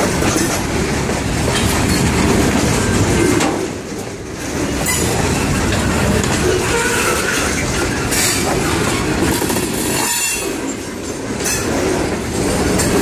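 A long freight train's cars rolling past close by: a steady heavy rumble and rattle of steel wheels on the rails, easing off briefly about four seconds and ten seconds in.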